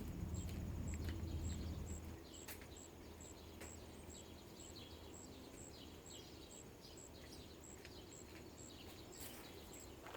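Quiet outdoor background of birds chirping, with a high chirp repeating about twice a second and a few light clicks; a low hum fades out about two seconds in.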